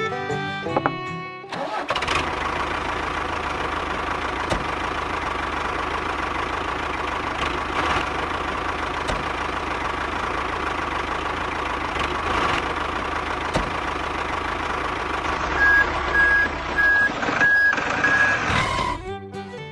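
A truck engine starts up and runs steadily. Near the end a few short reversing beeps sound, then the engine noise cuts off suddenly.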